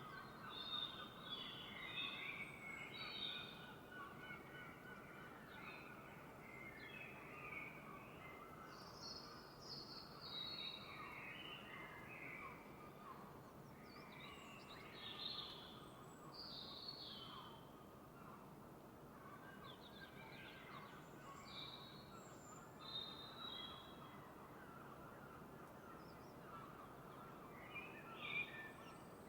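Dawn chorus of several wild birds chirping and singing, overlapping short phrases scattered throughout, over a faint steady background hiss.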